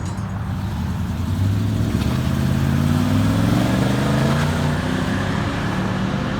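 A car engine accelerating as it pulls away, its pitch climbing steadily over a few seconds and then levelling off.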